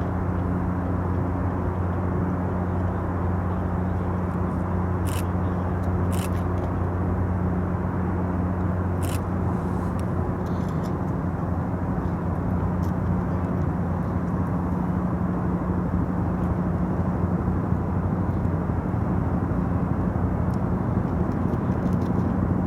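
Steady low mechanical hum of a large ship's diesel machinery running, an even drone with no change in pitch.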